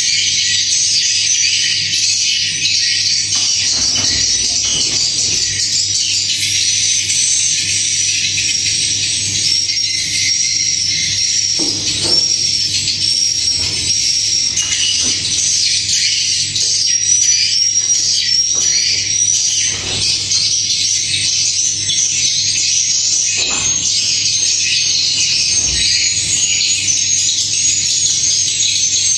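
Dense, continuous high twittering and chirping of swiftlets, with short repeated chirps throughout, over a steady low hum. A few soft knocks come through along the way.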